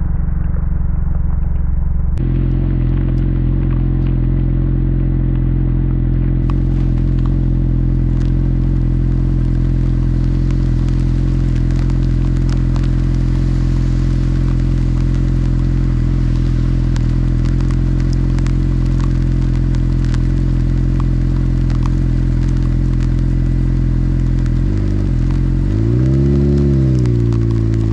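Suzuki GSX-R600's inline-four engine running at a steady, unchanging speed, with rain crackling over it. Near the end the engine's pitch swings up and down several times.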